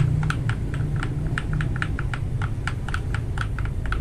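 Typing on a mechanical keyboard fitted with lubed Akko Matcha Green switches: a steady run of key clicks, about five keystrokes a second, over a low steady hum.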